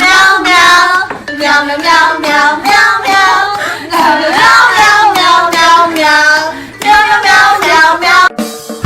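A high, child-like voice singing short phrases one after another.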